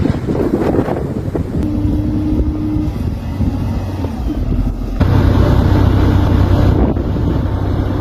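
Wind buffeting the microphone over a vehicle engine running steadily; the sound jumps abruptly to a louder, steadier hum about five seconds in.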